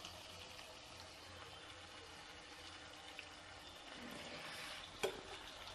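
Faint sizzling of chopped onions and green capsicum frying in a pan as soy sauce is poured over them, with one sharp click about five seconds in.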